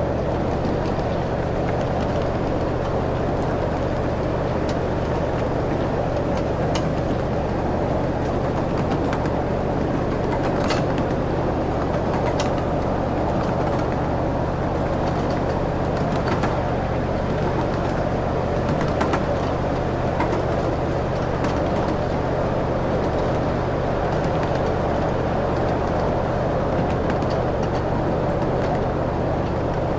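Ride-on excursion train running steadily, a low engine drone with track noise and a few sharp clicks.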